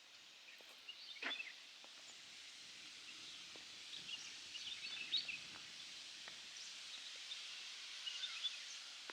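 Small birds chirping here and there over a steady high hiss of outdoor ambience, all faint.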